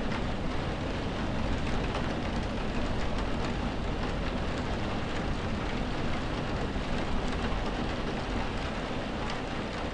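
Heavy storm rain heard from indoors, countless raindrops hitting the window glass as a dense spatter of small ticks over a steady low rush.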